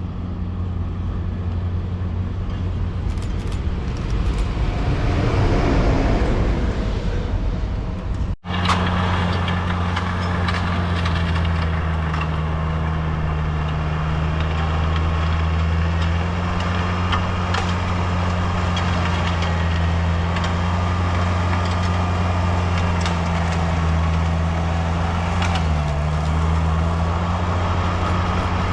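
Train passing on the railway: a steady low hum with a rush that swells and fades over the first several seconds. The sound breaks off sharply about eight seconds in, then the hum carries on with scattered clicks and rattles.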